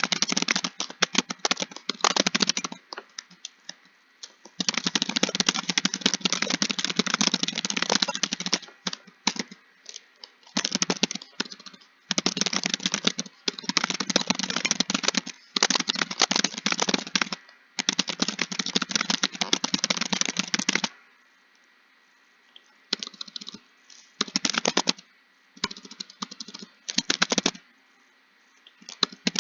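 Fast typing on a computer keyboard: dense runs of key clicks lasting a few seconds each, broken by short pauses, with a longer lull about two-thirds of the way through.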